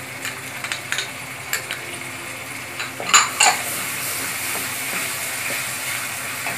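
Onion paste scraped from a bowl into hot oil and fried onions, with a run of light taps and clicks, then two louder knocks about three seconds in. After that, a steady sizzle as the paste is stirred with a spatula in the non-stick pan.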